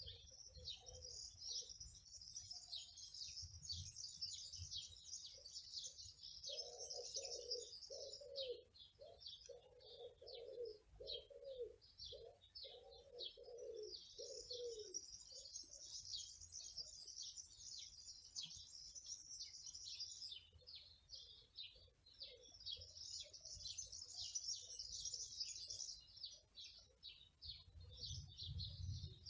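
Faint songbirds chirping and twittering in long, dense runs, with a lower cooing call of short repeated notes, like a dove's, from about 7 to 15 seconds in.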